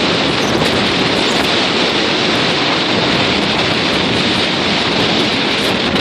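Very strong wind buffeting the microphone over rough lake waves washing against a pier, one dense steady rush of noise.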